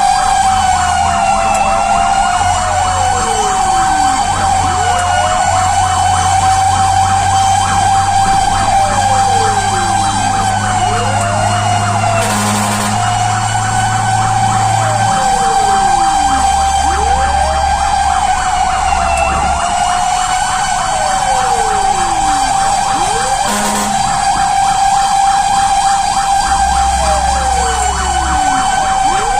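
Fire truck siren sounding continuously on a steady high tone with repeated sweeping pitch swoops beneath it, as the engine responds to a call. Two brief bursts of noise cut through, about 12 and 24 seconds in.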